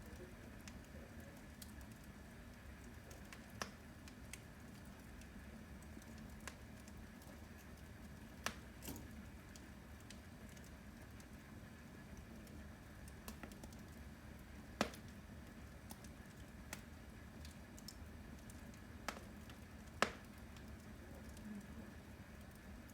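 Firewood burning in a wood stove, with sparse sharp pops and crackles from the logs every few seconds, the loudest a little before halfway and near the end, over a faint low hum.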